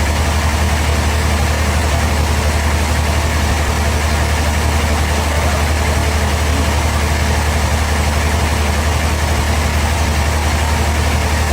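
An engine running steadily at idle, with a strong, deep, unchanging hum.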